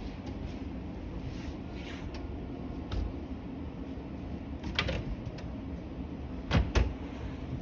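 Clicks and knocks of a display washing machine's door and latch being pulled at and handled, a few scattered, then two louder knocks close together near the end, over a steady low background hum.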